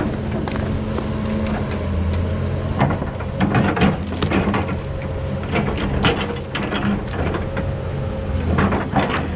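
Kobelco 210 hydraulic excavator's diesel engine running steadily, with irregular knocks and clanks from the machine working.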